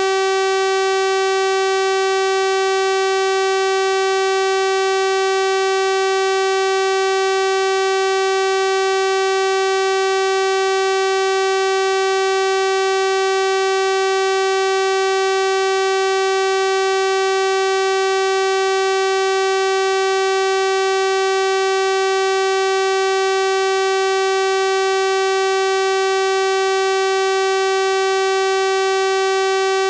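Synthesized 384 Hz sawtooth-wave test tone, held at one steady pitch and level, with a bright, buzzy stack of harmonics.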